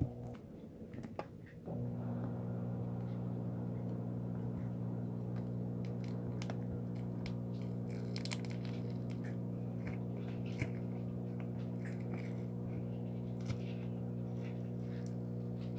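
Slime being squeezed and worked by hand, giving scattered small clicks and crackles. A steady low electrical hum sits under it, cutting out briefly near the start.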